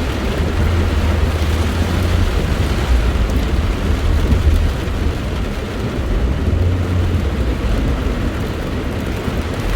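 Thunderstorm: a continuous low rumble that swells and fades every second or two, under a steady hiss of rain.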